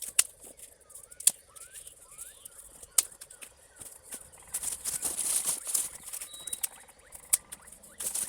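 Thin dry sticks snapping sharply four times, with dry leaves and twigs rustling as they are handled, while kindling is laid for a campfire. Faint bird chirps in the background.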